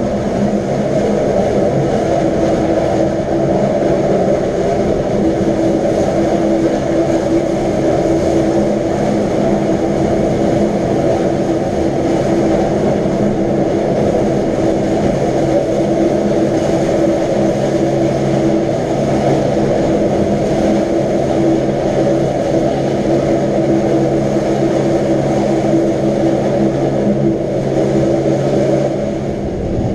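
Wengernalpbahn electric rack-railway train running, a steady rumble with a constant hum of several tones, easing off slightly near the end.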